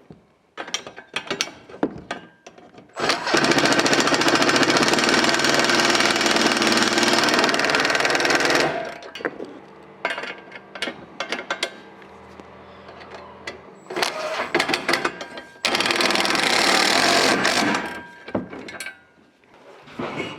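Power driver running button-head screws into nylock nuts, in two long runs: one of about five seconds and a shorter one of about two seconds, with clicks and clatter of the parts being handled in between.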